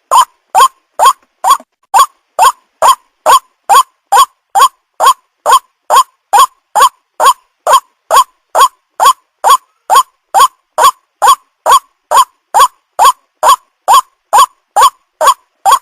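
White-breasted waterhen call, a lure recording for trapping waterhens: short calls repeated in an even rhythm, about two and a half a second, each sliding up in pitch.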